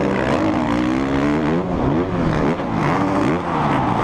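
Supercross dirt bike engine revving hard, its pitch held high at first and then dropping and climbing again about every half second as the rider blips the throttle.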